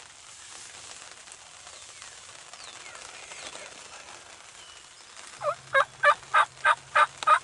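Wild turkey calling: a loud, evenly paced run of about eight two-pitched yelping notes, about three a second, starting near the end.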